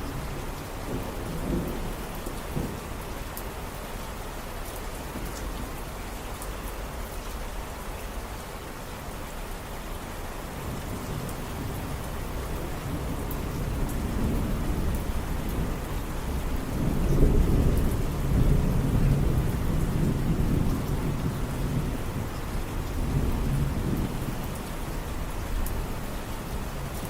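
Steady rain falling, with a low rumble of thunder that builds from about halfway through, is loudest around two-thirds of the way in, then eases.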